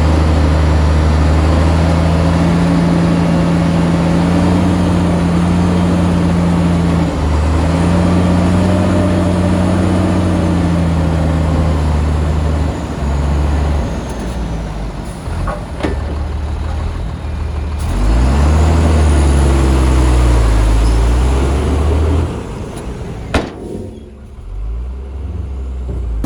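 Heavy diesel engine of earthmoving machinery running hard, its pitch wavering and rising and falling. About 22 seconds in it drops back to a quieter, lower running, with one sharp click shortly after.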